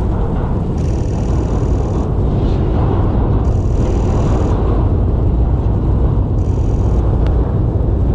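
A passing train, a steady low rumble, with three short high-pitched sounds of about a second each recurring over it.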